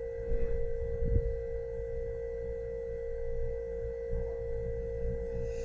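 A steady, unchanging pure tone hums throughout over a faint low rumble, with a soft bump about a second in.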